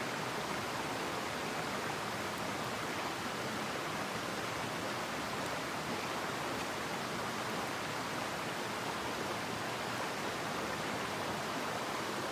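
Mountain headwater stream flowing: a steady, even rush of water.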